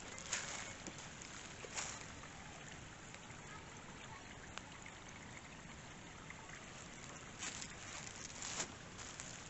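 Water trickling and running steadily, as from a small waterfall or stream. A few brief, louder noises stand out, about half a second in, near two seconds, and twice in the last two seconds.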